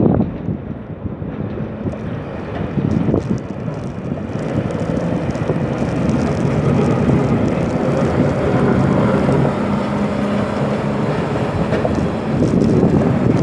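Wind buffeting the microphone over a steady low rumble, with a faint engine-like hum in the middle stretch.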